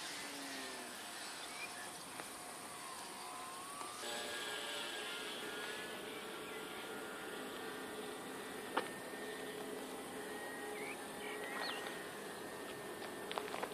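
Faint, steady buzzing drone of a flying RC model airplane's motor, its pitch drifting slightly. A single sharp click comes about nine seconds in.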